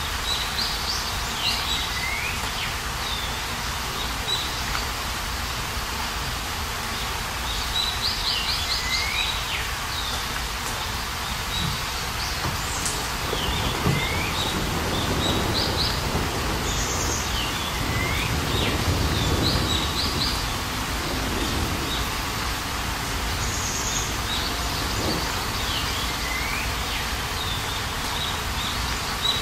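Steady heavy rain from a hailstorm falling on a patio, with a bird singing a short phrase of high notes ending in a slurred note, repeated about every six seconds. A low rumble swells and fades in the middle.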